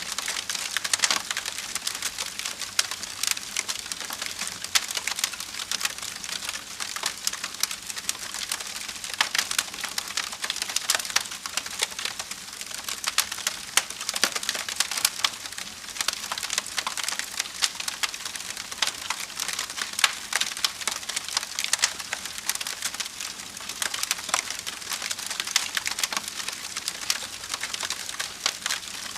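Wood fire burning in a fireplace, crackling and popping continuously with many small sharp snaps.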